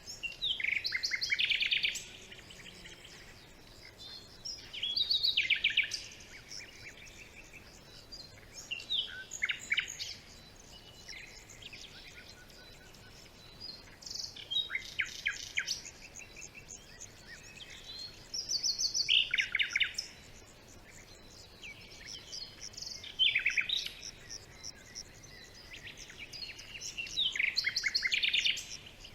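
A songbird singing in a forest: short phrases of rapid trilled notes, repeated about every four to five seconds, over a faint steady background hiss.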